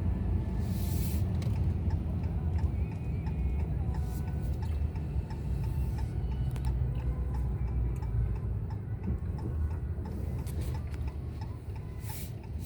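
Steady low road and engine rumble of a car being driven, heard from inside the cabin, with a few scattered light clicks.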